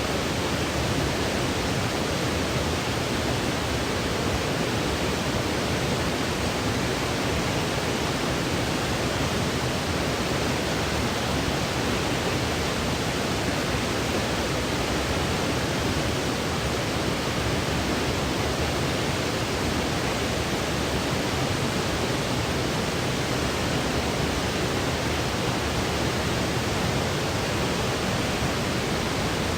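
Steady, unchanging electronic white-noise sleep sound: an even hiss with more weight in the lower and middle range than at the top, closer to pink noise than to pure bright hiss.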